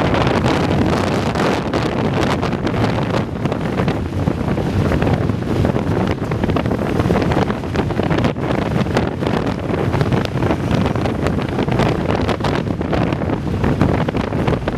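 Strong sea wind blowing straight onto the microphone: loud, continuous buffeting rumble that flutters with the gusts.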